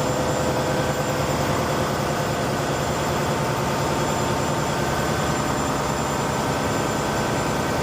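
Ship's engine-room machinery running steadily: a loud, continuous engine drone with a fast, even pulse and several steady whining tones above it, one higher tone joining about five seconds in.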